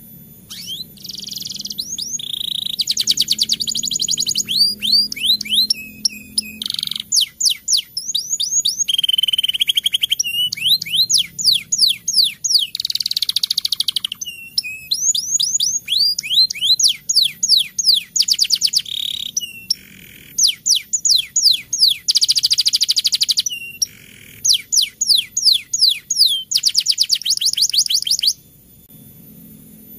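Domestic canary singing a long rolling song: fast trills of repeated falling notes and buzzy rolls, strung together with only short breaks. It starts about a second in and stops shortly before the end.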